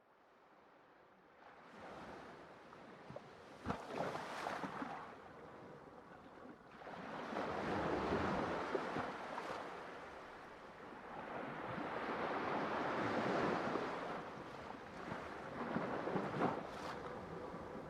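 Ocean waves breaking and washing on the shore, fading in from silence, then swelling and easing in surges every few seconds, with a few sharper splashes.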